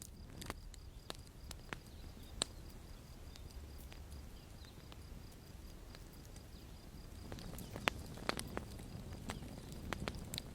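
Campfire crackling: irregular sharp pops and snaps from the burning wood over a low steady rumble, with a cluster of louder pops about eight seconds in.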